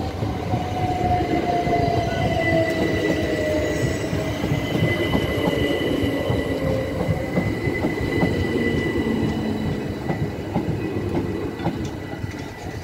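A Southern Class 377 Electrostar electric train passes close by over the level crossing: a loud, steady rumble of wheels on rail with many clicks over the joints, a thin high squeal, and a motor whine that falls in pitch as the train slows for the station.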